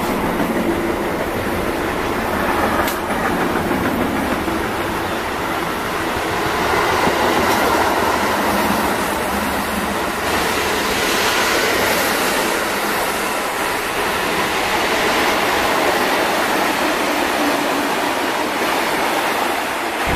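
Container freight train passing close by: the wagons' wheels running on the rails, a loud, steady rolling noise with rattling from the wagons.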